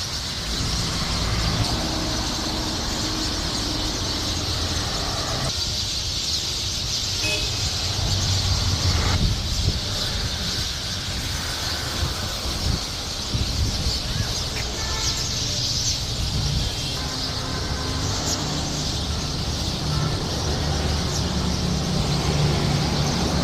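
Many small birds chirping together in a dense, continuous chorus, over the steady low rumble of road traffic.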